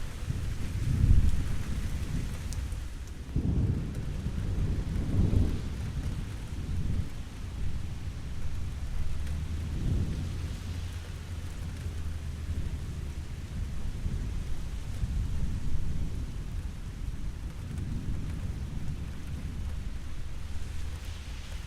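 Steady rain falling, with rolling rumbles of thunder that swell and fade several times, the strongest about a second in and again around five seconds in.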